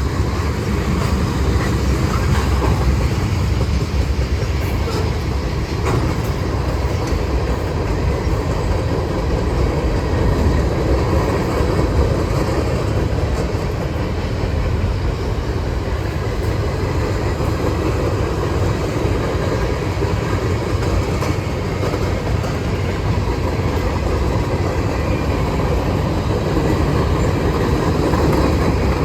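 Freight train rolling past at a steady pace: a continuous rumble of steel wheels on the rails, with faint clicks from the rail joints.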